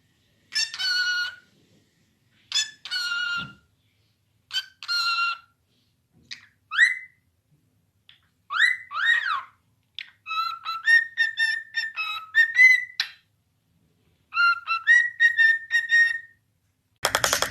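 A parrot calling and whistling: four separate squawking calls, then a few rising whistles, then quick runs of short chirped notes. A dense, buzzy rattle cuts in just before the end.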